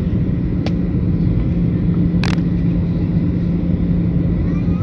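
Wind buffeting the microphone over a steady low rumble, with two short clicks.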